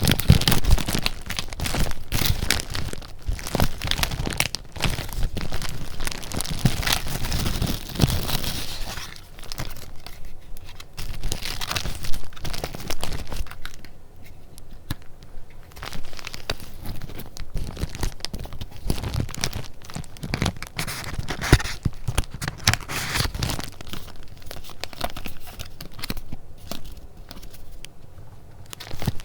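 Paper being handled close up: a dense, irregular run of small papery clicks and rustles, busiest in the first third, with a brief lull about halfway through.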